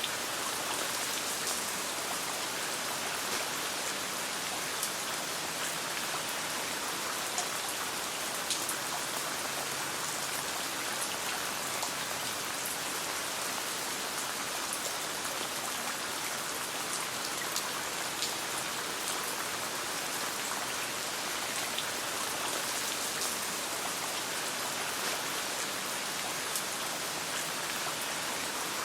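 Steady rain falling, a continuous even hiss with scattered sharp little clicks and pops throughout.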